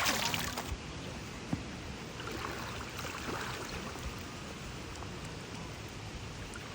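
River water flowing, a steady rushing hiss, louder for the first moment and then even.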